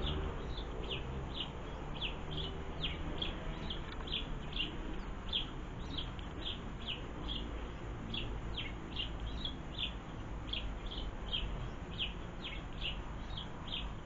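A small garden bird chirping steadily: short, high, slightly falling notes about two or three a second, over a low steady background rumble.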